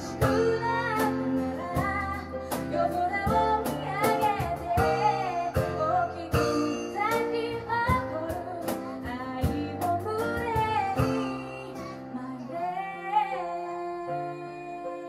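Live acoustic band music: a woman singing over keyboard, acoustic guitar and hand percussion. About 13 seconds in the voice and beat drop away, leaving piano notes.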